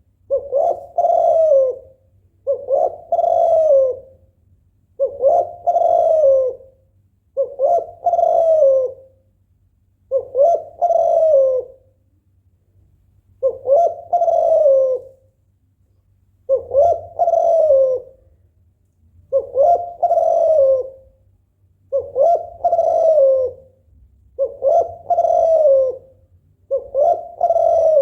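Female spotted dove (tekukur) in breeding condition giving its repeated 'bekur' coo, the call it uses to draw a male into singing. About a dozen low coos, each lasting a second or so, come at a steady pace every two to three seconds.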